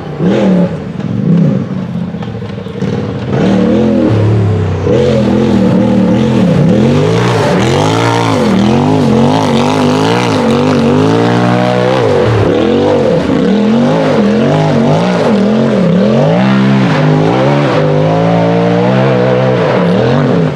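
Race UTV engine revving hard, its pitch climbing and dropping again and again as the throttle is worked. It is quieter and broken for the first few seconds, then loud and constant.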